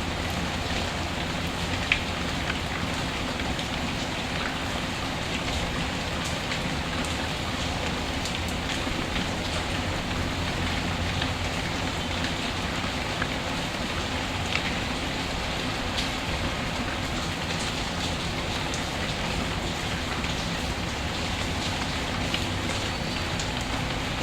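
Steady rain falling, an even hiss with scattered small sharp ticks, one louder tick about two seconds in.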